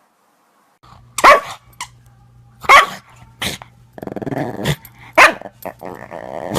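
A dog barking loudly three times, about a second and a half apart, starting about a second in, with growling between the barks.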